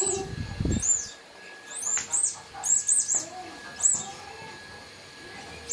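Short, high chirps repeating about once a second, like a small bird's, with a baby's soft vocal sounds in between and a few low knocks in the first second.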